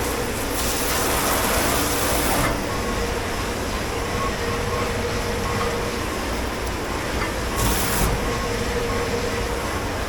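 Steady rumble and hum of dish pit machinery running. A loud hiss joins it about half a second in and lasts about two seconds, and a shorter hiss comes near eight seconds in.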